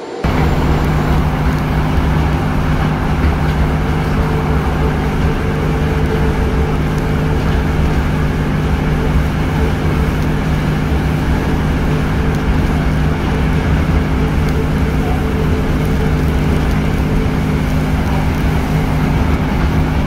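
Moving diesel train heard from on board: a steady engine drone with low hums under a constant rush of wheel, rail and air noise. It begins abruptly just after the start.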